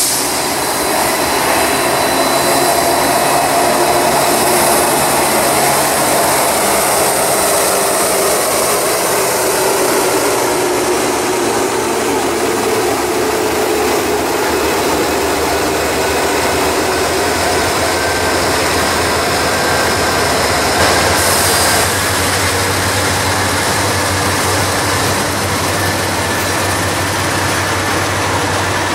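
Freight train passing close by: three diesel locomotives (a Union Pacific EMD SD70M leading, with Norfolk Southern GE D9-44CW and GE D8-40CW units) go by with their engines running over roughly the first half. Then double-stack container well cars roll past with a steady rumble of wheels on rail.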